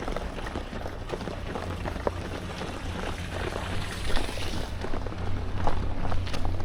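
Running footsteps as short irregular knocks over a steady low hum.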